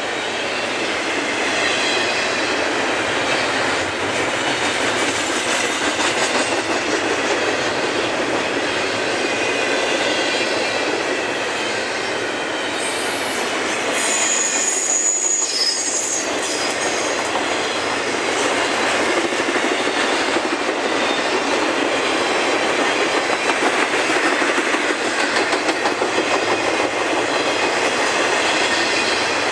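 Freight cars of a CSX train rolling past steadily, wheels on the rails with some wheel squeal. A brief high squeal about halfway through.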